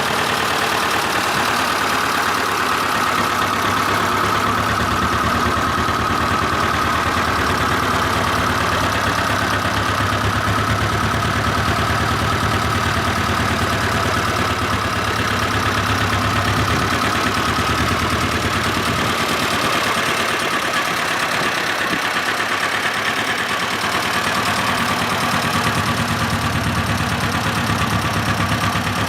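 1961 Kubota T18 vintage tractor's engine running steadily at idle.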